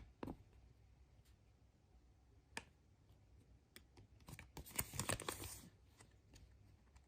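Faint handling of small plastic and wrapping: scattered sharp clicks, then a burst of quick clicks and crinkling between about four and five and a half seconds in, as a surprise egg and its toy are opened.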